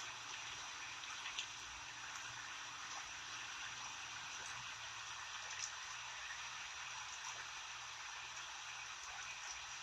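Rain falling steadily: an even hiss of rain with a few louder single drops ticking now and then.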